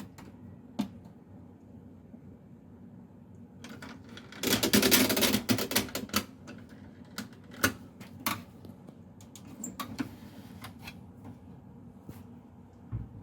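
Hands working a washing machine: a dense clattering rattle about four seconds in, then scattered sharp clicks, over a steady low hum.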